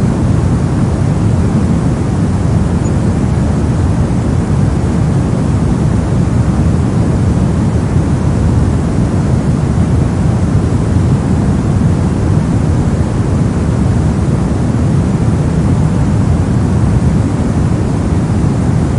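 Synthetic brown noise: a steady, loud, deep rushing hiss with most of its energy in the low end and no breaks or changes.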